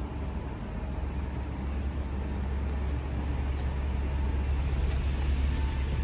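Steady low machinery hum and rumble aboard ship, with a faint steady whine above it, growing slightly louder toward the end.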